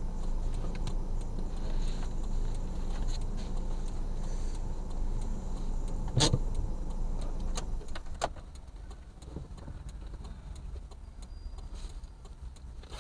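Car engine idling, heard from inside the cabin as a steady low hum. A few sharp clicks come about six to eight seconds in, the first the loudest, after which the engine sound drops away and it goes quieter.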